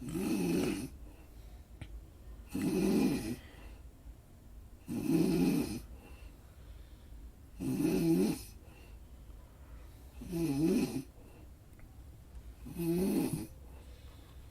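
Snoring: six snores, about one every two and a half seconds, each lasting about a second with a low, wavering pitch, and quieter gaps between them. A steady low hum lies underneath.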